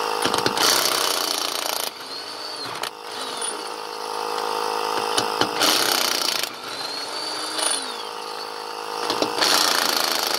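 Power tool run in three short bursts about four seconds apart, with a lower whir that rises and falls in pitch between them.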